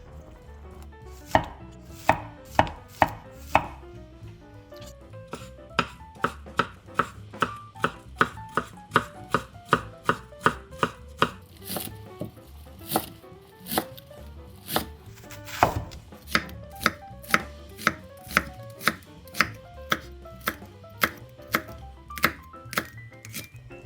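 Kitchen knife chopping vegetables on a cutting board in steady, even strokes, about two to three a second, with a short pause early on before the chopping settles into a regular rhythm.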